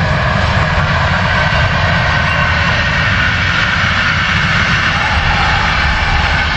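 Intercity train hauled by an electric locomotive passing at speed: a steady rushing rumble of wheels running on the rails.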